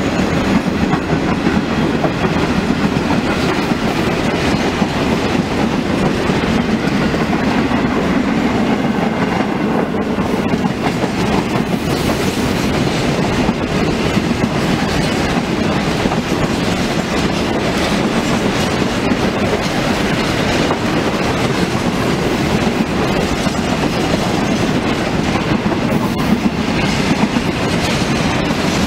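A long rake of grain hopper wagons on a freight train rolling past close by at speed: a steady, loud rumble and clatter of steel wheels on the rails that holds throughout.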